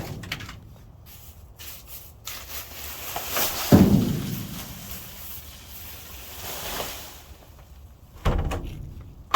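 Rubbing, scraping and rustling of trash being rummaged through in a dumpster, with a heavy thump about four seconds in and another knock near the end.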